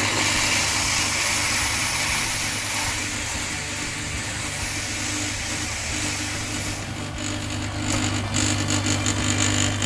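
Gaggia Classic's vibratory pump buzzing steadily while steam hisses out of the steam wand, turning to irregular spurts after about seven seconds. The tank is empty and the pump is drawing no water, so only steam comes out.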